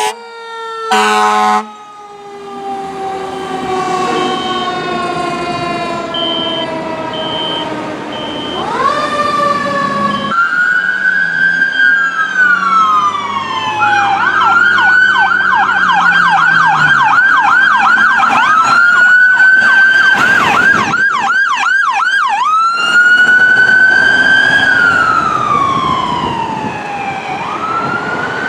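Fire truck electronic siren sounding while responding. It starts on a slow falling and rising wail, switches to a fast yelp in the middle, then goes back to the wail. A row of short high beeps sounds over the wail early on.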